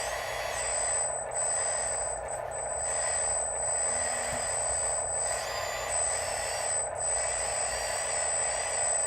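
Radio-controlled construction machine running: a steady mechanical whine from its electric motors and gearing, with a high constant tone and a few brief glides in pitch as the motor speed changes.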